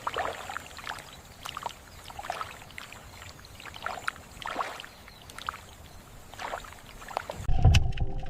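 Water sloshing and splashing in irregular bursts, like movement in shallow water. About seven and a half seconds in, a louder low rumble with a steady hum takes over.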